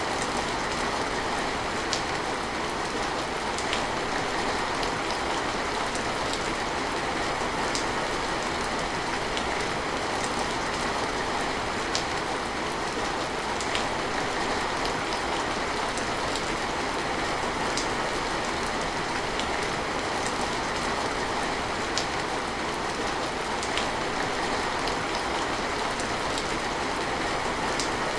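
Steady rain, an even hiss, with now and then a single drop landing as a sharp tick.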